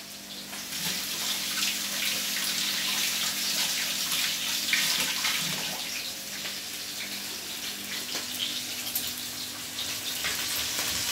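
Coated okra frying in hot oil in a pan: a steady, dense sizzle with fine crackling.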